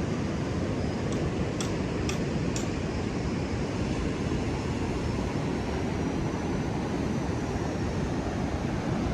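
Steady wash of Indian Ocean surf mixed with wind on the microphone. In the first few seconds, four light footstep clicks about half a second apart.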